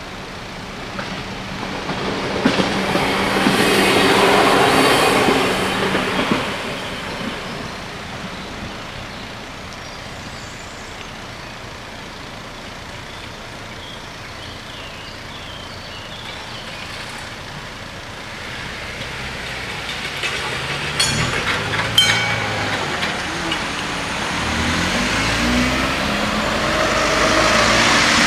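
Vehicles passing by: one swells and fades about four seconds in, and another builds toward the end, with a couple of sharp clacks a little past twenty seconds.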